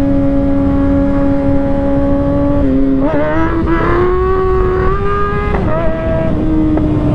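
Kawasaki ZX-6R inline-four sport bike engine running at a steady cruise under heavy wind rumble on the rider's microphone. About three seconds in the revs climb for a couple of seconds, then drop back and hold steady again.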